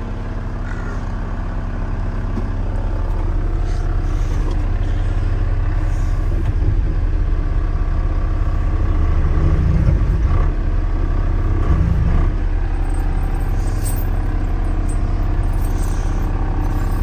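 Caterpillar 914 wheel loader's diesel engine running under hydraulic load as the loader is raised. It gets louder over the first few seconds and swells briefly twice, about ten and twelve seconds in.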